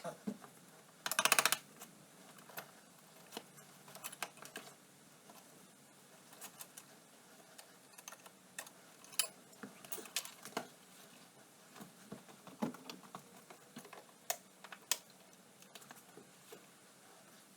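Scattered clicks, taps and light metallic knocks of tools and metal parts being handled while an ATV is taken apart, with a short rapid run of clicks about a second in.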